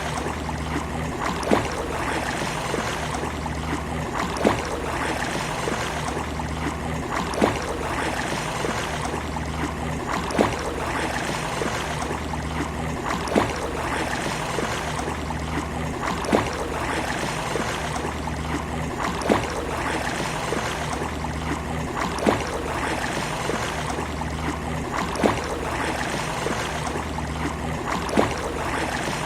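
Sea water washing in a steady, even hiss with no rise and fall of separate waves. A sharp click repeats about every three seconds.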